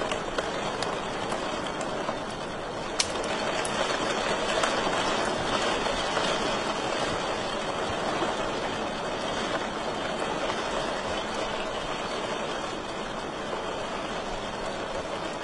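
Wood fire crackling in a fireplace: a steady hiss with scattered sharp pops, the loudest about three seconds in.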